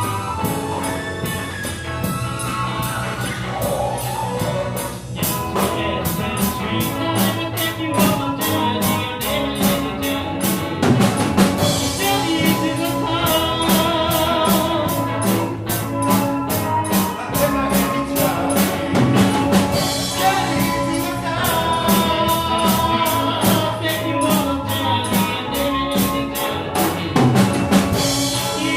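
Live rock band with drum kit, bass, electric guitar and synthesizer playing a mostly instrumental passage, the drums settling into a steady cymbal beat about five seconds in.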